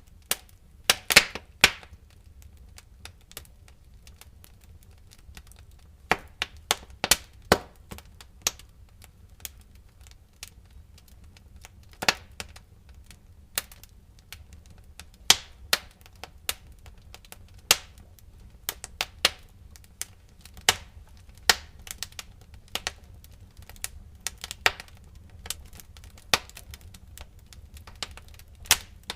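Wood fire in a fireplace crackling, with sharp pops that come irregularly, some in quick clusters, over a faint steady low rumble of the flames.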